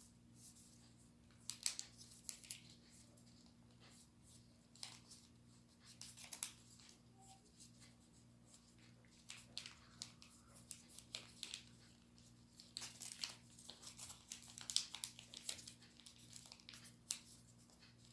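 A sheet of origami paper being folded and creased by hand: scattered crisp rustles and crinkles that come in small clusters, over a faint steady low hum.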